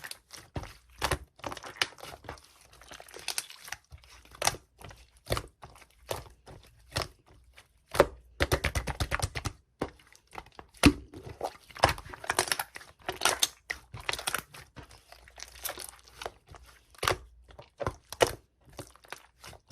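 Hands squishing, poking and stretching a coral-coloured slime, making irregular sharp pops and crackles, with a quick run of clicking about eight seconds in.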